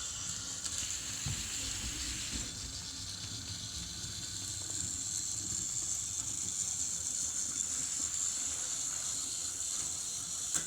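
Small battery-operated toy train engines running, their motors and gears whirring steadily with a high hiss over a low rumble.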